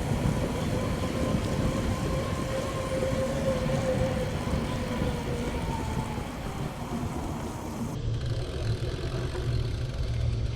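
Wind buffeting the microphone and tyre noise from a bicycle rolling along a paved road, a steady low rumble. A faint whine at first drifts slightly lower and fades out about six seconds in.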